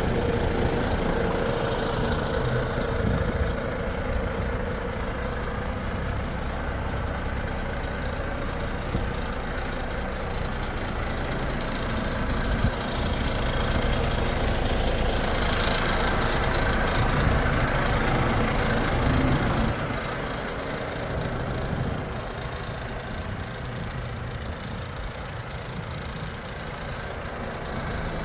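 Volvo FH 500 truck's 13-litre six-cylinder diesel idling steadily, louder for several seconds past the middle and then quieter, with one sharp click about halfway through.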